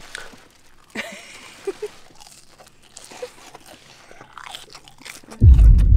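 Close-up chewing and crunching of fries, with small sharp mouth clicks. About five and a half seconds in, a loud low rumble starts suddenly and covers the rest.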